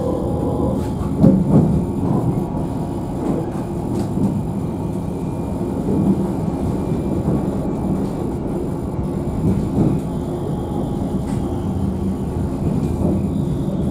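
Alstom Citadis tram running along the track, heard from inside the car: a steady low rumble of wheels and running gear, with a couple of louder knocks about a second in.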